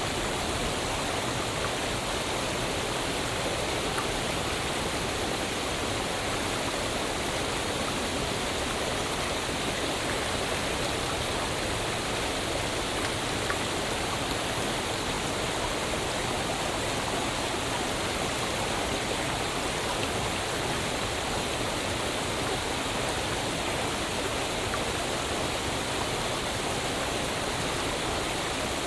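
Waterfall: falling water rushing in a steady, unbroken roar of noise.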